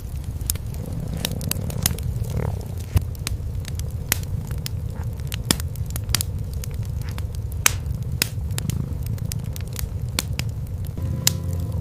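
Wood fire in a fireplace crackling, with frequent sharp pops, a few of them louder, over a steady low rumble of cats purring.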